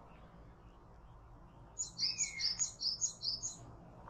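A small songbird singing a quick run of about eight high, repeated chirps, around four a second, starting about two seconds in. A lower slurred whistle sounds under the start of the run.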